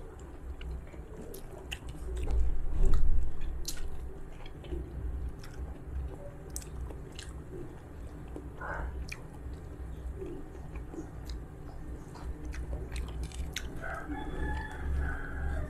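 Close-up chewing and mouth sounds of a person eating rice and genjer greens by hand, with small clicks of fingers on the plate, louder about two to three seconds in. Near the end a faint, drawn-out pitched call sounds in the background.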